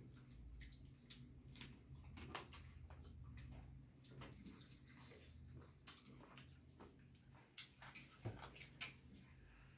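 Faint eating sounds: wet mouth noises, chewing and small scattered clicks as chicken soup with dhido is eaten, over a low steady hum.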